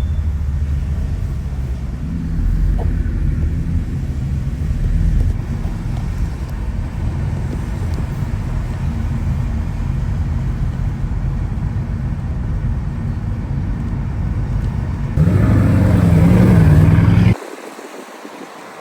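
Bugatti Chiron Sport's quad-turbocharged W16 engine running steadily at low revs while driving, a low rumble. About 15 seconds in it gets louder for about two seconds with a wavering engine note, then drops away abruptly to a quieter sound.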